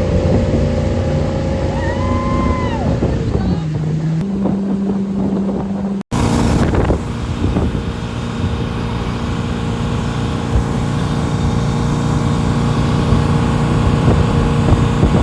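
Motorboat engine running steadily under way, with wind on the microphone; the sound breaks off abruptly about six seconds in and resumes.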